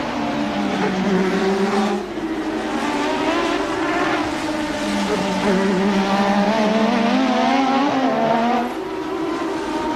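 Formula One race car engine running at racing revs, its note rising and falling as it accelerates and lifts, with sharp dips about two seconds in and again near the end.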